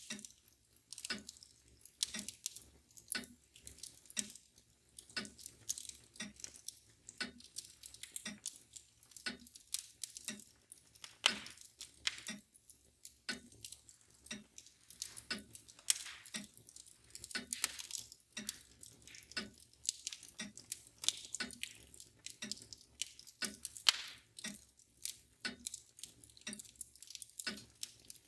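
Wood fire crackling, with irregular sharp snaps and pops. Under it, a mantel clock ticks steadily about once a second.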